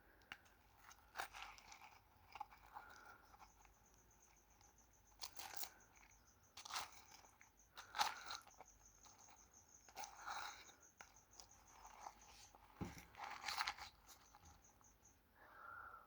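Dry multani mitti (Fuller's earth) clay crunching and cracking in a string of separate crunches, a second or two apart.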